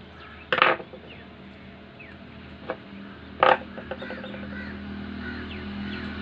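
Two short, loud bird calls about three seconds apart, over a steady background hum that grows louder in the second half.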